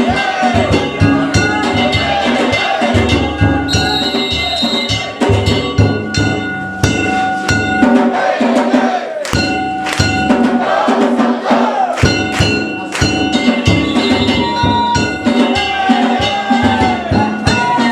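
Danjiri festival-float music: drums and metal gongs struck in a fast, continuous rhythm, with the gongs ringing on between strokes.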